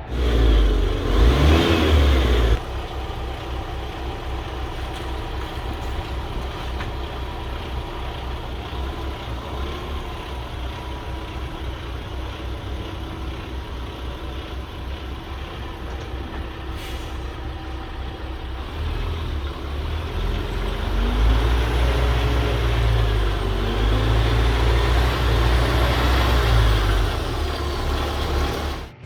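Diesel engine of a 2014 Kenworth W900 tri-drive truck: a loud burst in the first couple of seconds, then idling steadily. From about twenty seconds in it runs louder and revs for several seconds before cutting off suddenly.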